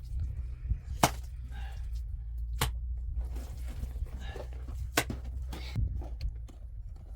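Three sharp clicks or cracks spaced a second or two apart, over a steady low rumble, with faint voices in the background.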